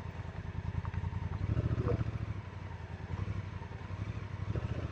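2019 Honda Africa Twin DCT motorcycle's parallel-twin engine running as the bike rides, a steady low rumble that swells slightly between one and two seconds in.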